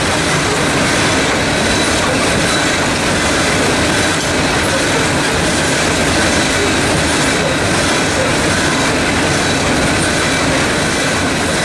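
Loaded hopper cars of a CSX gravel train rolling past: a steady, loud rumble of steel wheels on rail, with a faint high squeal held over it.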